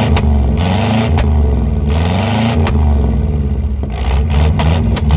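Chevrolet El Camino's V8 revving up and down several times, loud, with a few sharp clicks scattered through.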